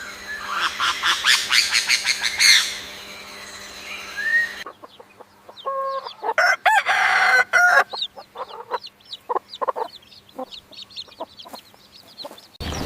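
Chickens clucking, in two pieces joined by a sudden cut: first a fast run of clucks, then a louder drawn-out pitched call followed by scattered short clucks.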